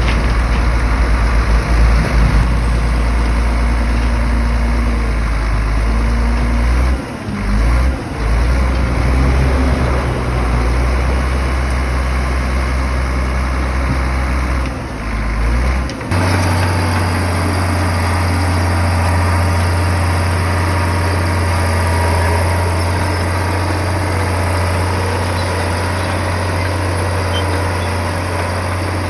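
Heavy diesel engine of earthmoving machinery running steadily, with a deep drone. The drone dips briefly twice and settles to a different steady pitch about sixteen seconds in.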